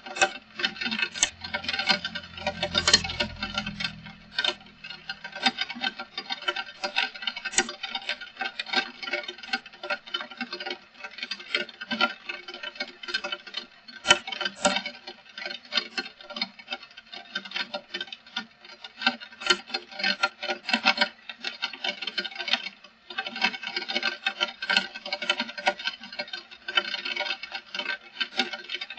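Heavy rain falling, dense irregular drops pattering and ticking on a hard surface, with a brief low rumble about two to four seconds in.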